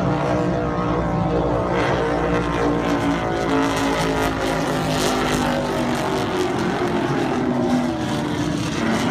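Engines of a passing powered craft droning steadily, their pitch sinking slowly as they go by.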